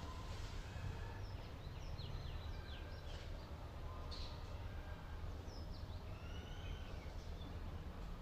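Small birds chirping: many quick, high, sliding notes in loose clusters, over a steady low rumble of background noise.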